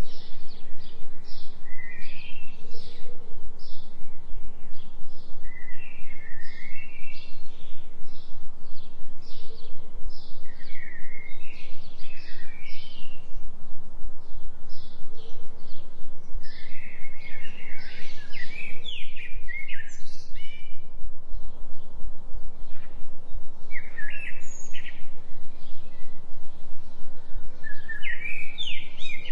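Forest birds chirping and singing in quick repeated phrases, laid over a steady low tone: the delta 3 Hz binaural beat, which pulses evenly several times a second.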